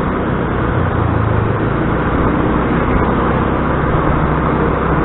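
Motor scooter engine running steadily during a ride through busy town traffic, mixed with a steady rush of road and traffic noise.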